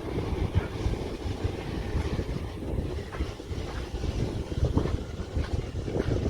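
2003 Dodge Ram 1500's 5.7-litre Hemi V8 truck running, heard as an uneven low rumble with wind buffeting the microphone.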